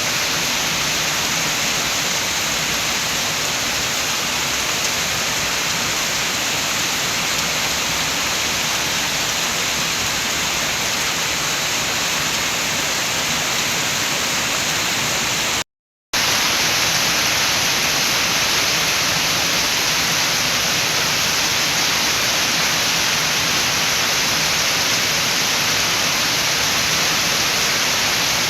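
Steady rain with wind: a dense, even hiss that cuts out completely for about half a second around the middle, then resumes unchanged.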